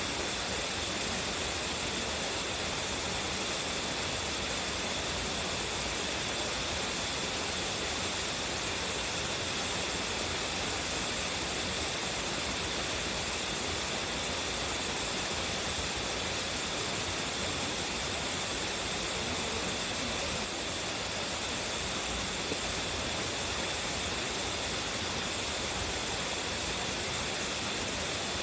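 Tsuzumigadaki waterfall in strong flow: a steady, unbroken rush of falling water with a bright hiss.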